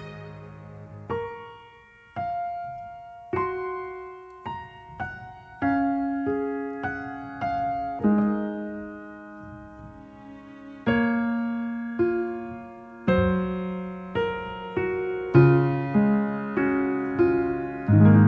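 Gentle solo piano music: single notes and soft chords struck one after another, each ringing and fading, in a slow, calm phrase.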